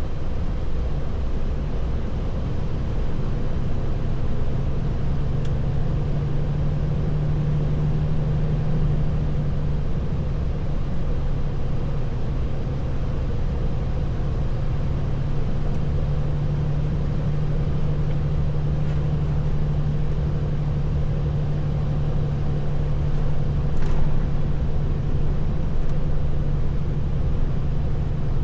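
Truck engine running steadily with road noise, heard from inside the cab as a constant low drone and hum.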